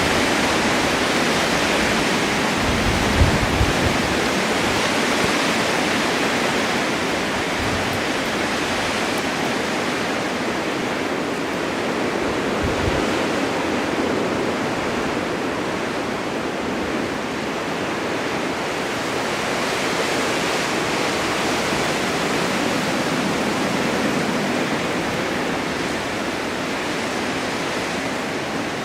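Blizzard wind blowing steadily with slow swells, driving snow across a winter mountain, with a couple of faint low gusts buffeting the microphone about three seconds in and again near the middle.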